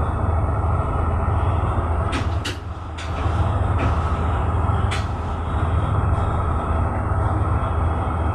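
Tugboat's diesel engine running steadily with a deep low hum. A few sharp clicks come between about two and five seconds in, and the engine sound dips briefly near three seconds.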